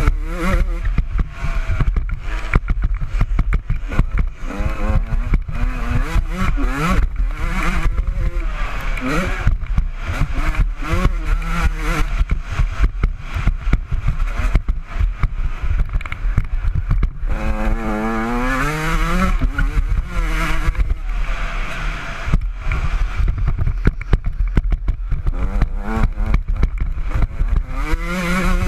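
Honda CR125 two-stroke single-cylinder motocross engine revving up and down again and again as the bike is ridden hard round a dirt track, with one long climb in revs about two-thirds of the way in. Frequent short knocks and clatter sound over the engine.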